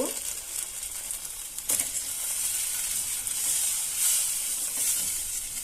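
Ground coconut masala paste and water sizzling in a pan of coconut-oil tempering as it is stirred. One sharp knock comes a little under two seconds in.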